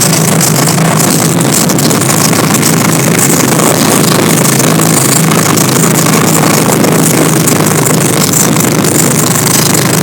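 Motorcycle engine running at a steady speed on the move, with wind rushing over the microphone.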